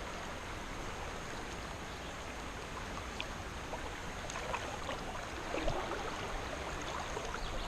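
Creek water running, a steady rushing hiss, with a few small knocks in the second half.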